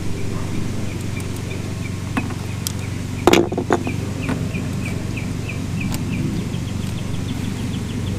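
A steady low hum runs under a series of short, high chirps, about two a second, which quicken in the second half. A few sharp clicks and a brief clatter come about three seconds in.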